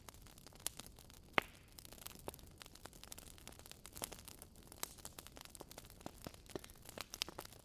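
Wood fire crackling in a fireplace: irregular small pops and snaps over a faint hiss, with one sharper snap about a second and a half in.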